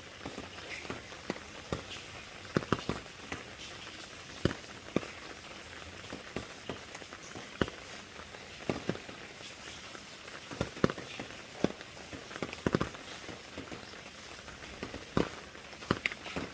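Rain falling with a steady hiss, and large single drops tapping sharply and irregularly close by, one or two a second.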